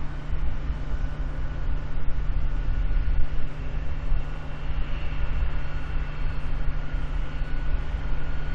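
Jet airliner engines running steadily: a low rumble with a thin, steady whine above it.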